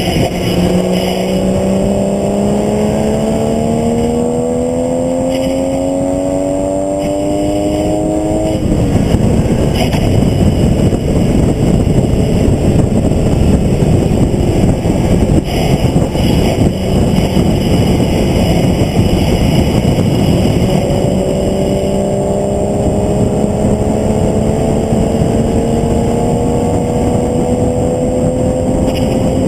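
Onboard sound of a track-day vehicle lapping at speed. The engine pulls hard, its note rising steadily for about eight seconds, then drops away into loud wind and road rush. About twenty seconds in, it climbs again under acceleration.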